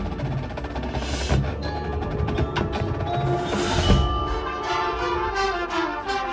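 Drum corps front ensemble playing a quieter mallet percussion passage, with bell-like ringing tones and sharp wooden strikes. A run of notes falls in pitch about five seconds in.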